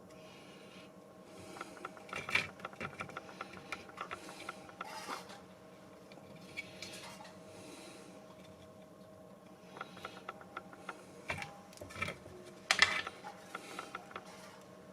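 Small mechanical clicking and rattling in two spells of rapid clicks, with a few sharper clicks near the end. Under it runs a faint steady hum.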